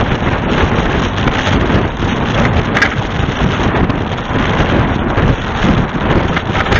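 Heavy wind buffeting an action camera's microphone over the steady running of a truck. There is one brief tick about three seconds in.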